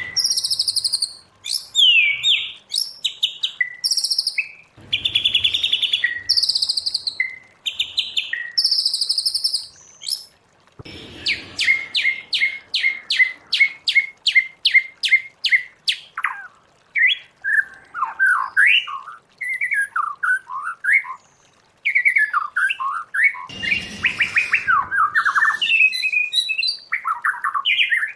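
White-rumped shama singing a long, varied song of loud, clear whistled phrases. Midway comes a fast run of repeated notes, about four a second, followed by lower, warbling fluty whistles.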